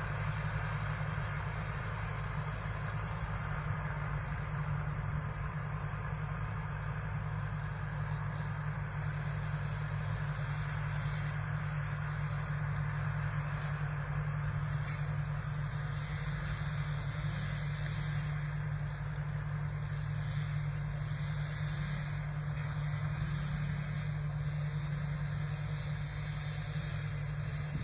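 Rice combine harvester running steadily, its engine a constant low drone with no change in speed.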